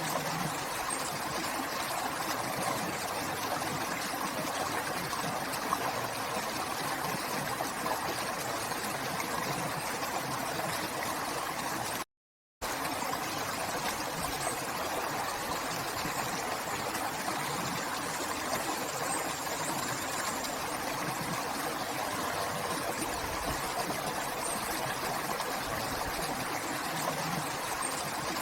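River water flowing: a steady rushing of water, broken once by a half-second gap of silence about twelve seconds in.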